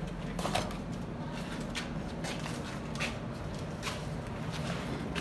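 Workshop noise: a steady low machine hum with a few scattered light metal knocks and clinks.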